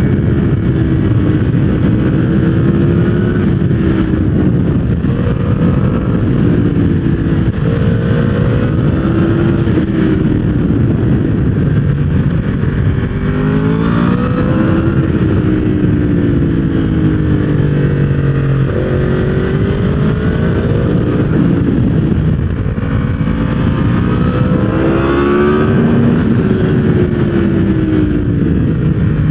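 Yamaha R1 inline-four engine through a full aftermarket exhaust system, running loud with no gaps. Its note climbs over a few seconds and then drops, several times over, as throttle and gears change.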